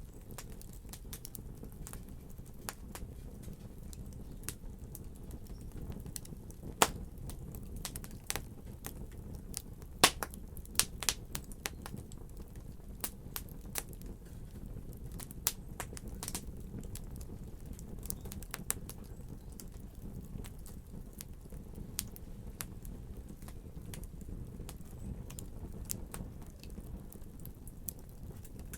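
Fireplace fire crackling: scattered sharp pops and snaps over a low, steady rumble of the flames, with the loudest pops about seven and ten seconds in.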